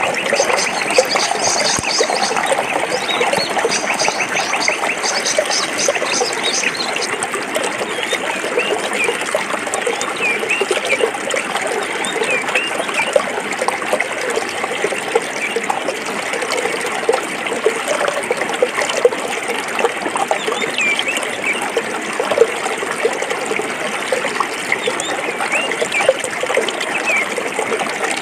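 Forest stream flowing over rocks: a steady rushing babble full of small gurgles and plops. A high, rapid chirping runs over it for the first few seconds.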